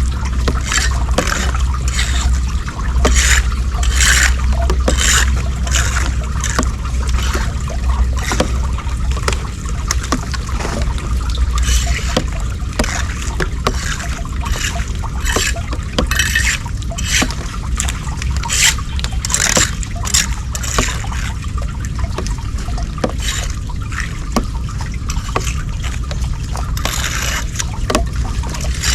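Floodwater trickling and splashing at a clogged street drain, with many short irregular splashes over a steady low rumble.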